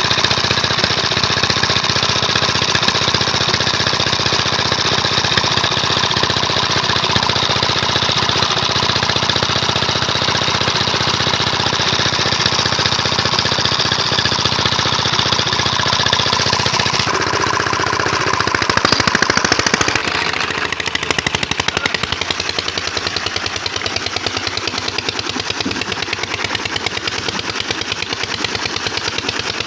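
A 12 LD engine running with a rapid, even knock of firing strokes. About seventeen seconds in its sound changes and swells briefly, then drops to a quieter, lower running about twenty seconds in.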